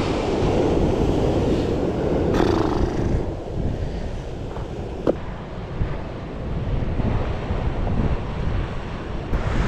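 Wind buffeting the microphone over the wash of small waves on a beach, with a single brief click about five seconds in.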